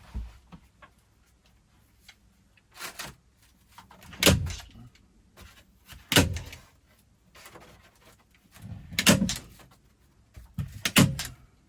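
A staple gun firing into Moore rafter vents: about five sharp bangs, a second or two apart, some of them doubled.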